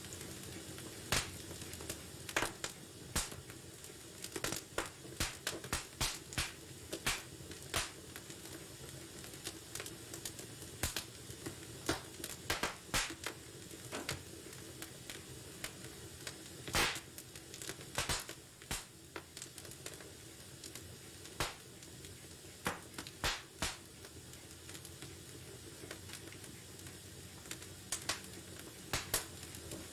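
Wood fire burning in a fireplace: irregular sharp crackles and pops over a steady soft hiss, some in quick clusters and a few louder single snaps.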